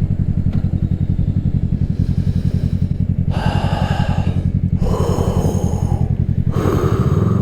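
Kawasaki Ninja 650's parallel-twin engine through an aftermarket M4 full exhaust, running at low revs with an even, lumpy pulse. Higher-pitched sounds come and go over it in the second half, and the engine note shifts just before the end.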